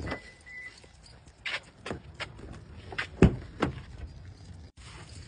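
Irregular short knocks and clicks, about a dozen, the loudest a little past three seconds in.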